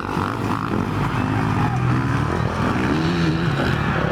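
Motocross bike engines running hard during a race, their pitch rising and falling as the riders work the throttle and shift.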